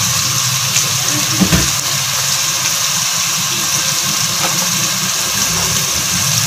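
Onion-tomato masala frying in oil in a pot, a steady sizzling hiss over a steady low hum, with a light knock about a second and a half in.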